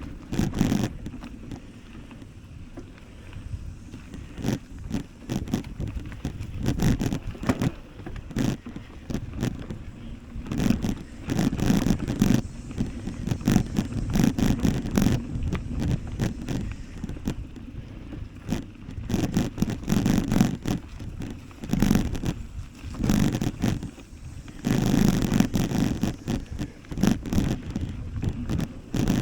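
Riding noise from a bike on the move: an uneven low rumble of wind buffeting the microphone, with frequent rattling clicks and scrapes.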